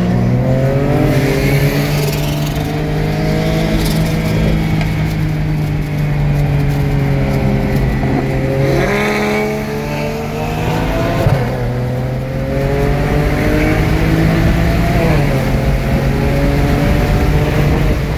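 BMW 335i's N54 twin-turbo straight-six heard from inside the cabin, pulling hard on track. The engine's pitch climbs and drops back a few times, around nine, eleven and fifteen seconds in.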